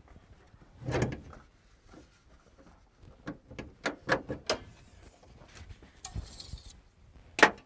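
Handling knocks and clicks at a pickup's engine bay while the oil is being checked: a dull thump about a second in, a run of sharp clicks in the middle, a brief rustle, then a sharp knock near the end.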